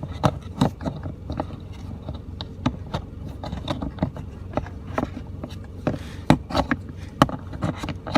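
Irregular clicks, knocks and rattles of hands working the scan tool's cable and plugging it into the 16-pin OBD connector under the dashboard, over a steady low hum.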